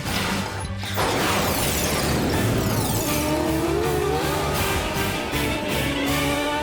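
Cartoon speed sound effects: a fast zooming rush with skid-like squeals as a character races along, over rhythmic background music.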